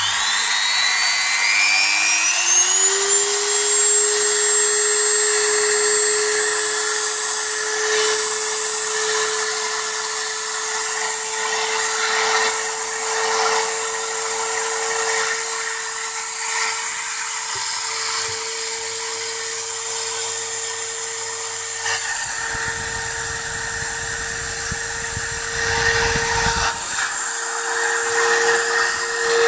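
Dremel 3000 rotary tool switched on at maximum speed: its motor spins up with a rising whine over the first few seconds, then runs steadily with a piercing high whistle. The whistle is an abnormal noise on a five-day-old tool, which the owner says was not there in the first two days.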